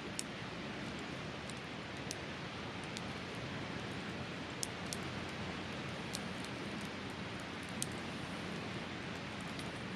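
Wood campfire crackling, with sharp, irregular pops every second or so over a steady rushing background.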